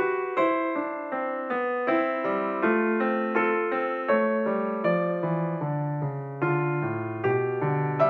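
Background piano music: a slow melody of struck notes, about two a second, each fading away before the next.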